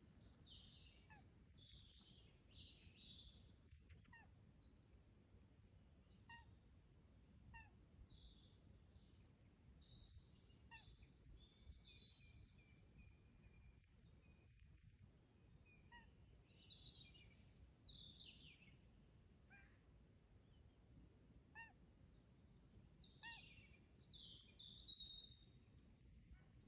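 Faint birdsong from several birds: scattered high chirps and warbling phrases, with one short call repeated every second or two, over a low steady rumble.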